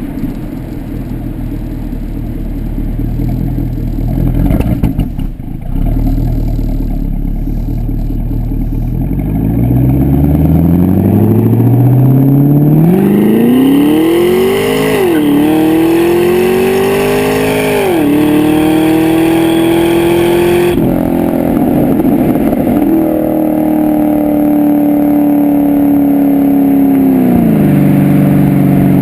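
Pontiac G8 GXP's LS3 V8 exhaust note through a Corsa exhaust. A low rumble gives way about ten seconds in to hard acceleration: the pitch climbs, drops sharply at two upshifts, then holds steady at cruise before falling as the throttle eases off near the end.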